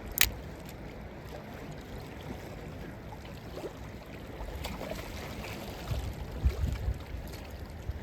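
Water lapping and wind at the water's edge, a steady hiss, with one sharp click shortly after the start and low rumbles of wind on the microphone around six to seven seconds in.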